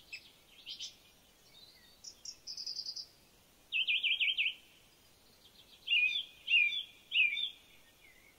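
Several birds calling: short high chirps, a rapid wavering trill about four seconds in, then three falling whistled calls near the end.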